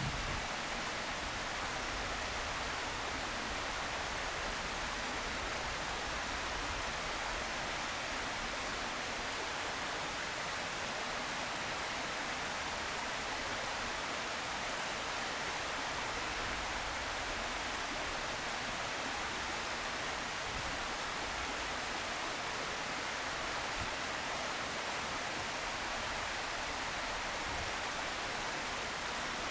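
Steady, even hiss with nothing standing out from it.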